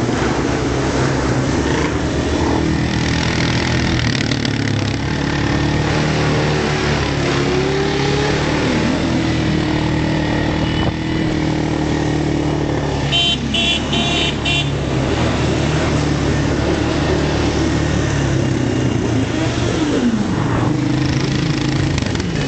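Motorbike engines running on the move, their pitch rising and falling as the throttle is opened and eased. About two-thirds of the way through there is a brief run of high beeps.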